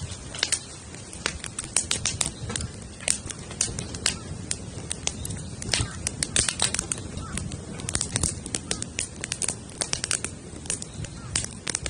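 Wood campfire built teepee-style, crackling with many sharp, irregular pops over a steady low rumble.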